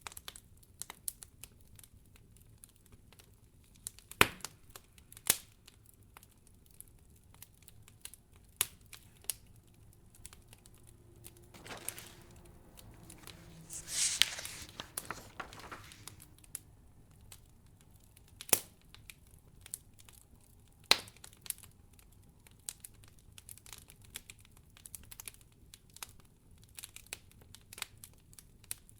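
Wood fire crackling in a fireplace: sparse sharp clicks with a few louder pops. About halfway through, a soft rush of noise swells up and fades away over a few seconds.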